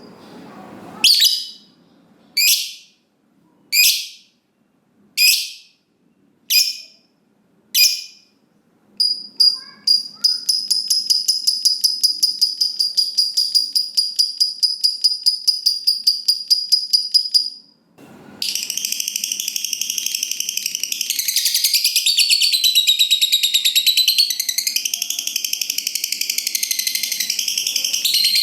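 Lovebird calling: a series of short shrill calls about a second apart, then a long fast, even trill of repeated notes, the 'ngekek panjang' long chatter, and after a short break a dense run of chattering with rising and falling notes.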